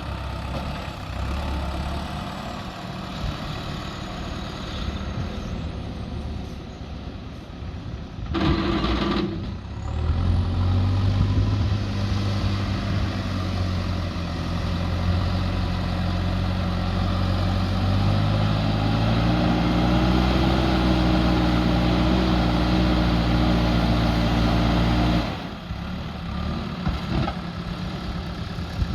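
JCB 3DX backhoe loader's diesel engine working. It revs up about a third of the way in, climbs higher in pitch under load, then drops back sharply to a lower speed near the end.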